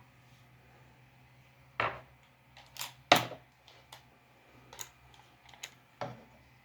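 Irregular sharp taps and clicks of drawing tools handled on a desk, about seven knocks, the loudest a little past three seconds in, over a faint steady low hum.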